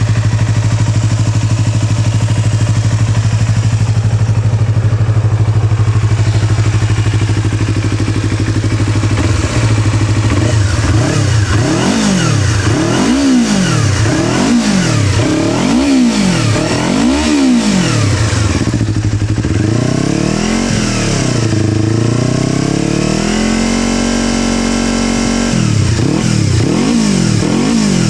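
Yamaha YZF-R25's parallel-twin engine, fitted with an aftermarket Akrapovič muffler, idling steadily, then revved in quick blips about once a second. Partway through, the revs rise more slowly and are held higher for a couple of seconds, and then more quick blips follow near the end.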